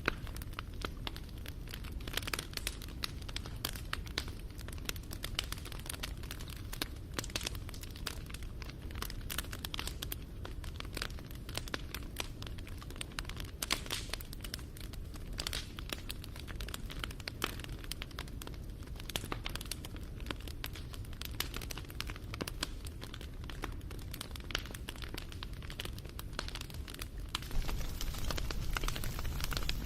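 Wood fire crackling: a dense, irregular run of small pops and snaps over a low steady rumble, growing a little louder near the end.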